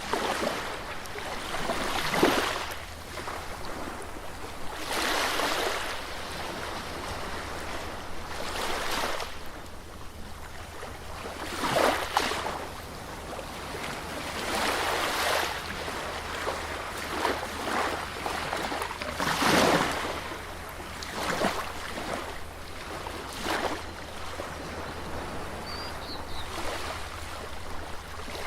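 Sea waves breaking and washing up a beach, swelling in surges every two to four seconds over a steady surf hiss.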